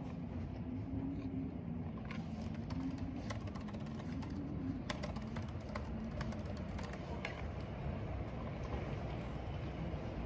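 Unhurried typing on a computer keyboard, scattered keystrokes a few times a second, over a steady low rumble of wind and rain.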